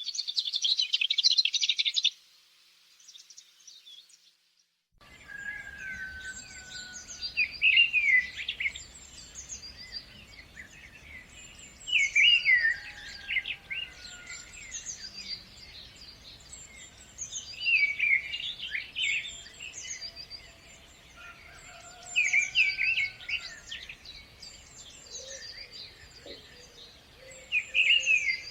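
Songbirds singing: a dense buzzy trill for about two seconds, a short near-silent break, then one bird repeating a brief song phrase about every five seconds over quieter calls.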